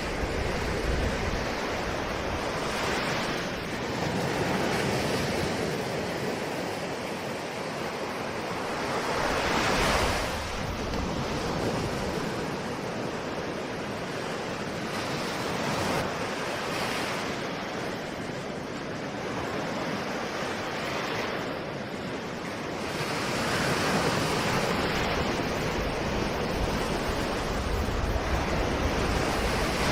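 Ocean waves breaking and washing on the shore, a steady rush of surf that swells and ebbs every few seconds, with one bigger wave about a third of the way in. Some wind noise on the microphone.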